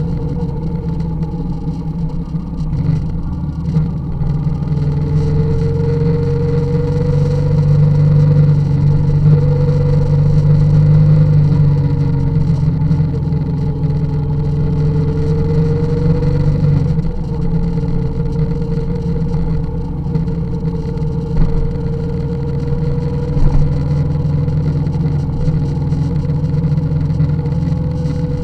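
Motorcycle engine running under way, its pitch rising and falling slowly with the throttle, over a heavy low rumble; the engine eases off about seventeen seconds in.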